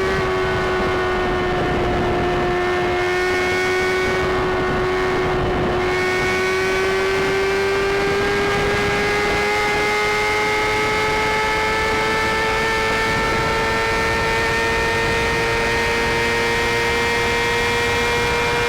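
Sport motorcycle's inline-four engine held at high, steady revs, its pitch slowly climbing, with a constant rush of wind and road noise.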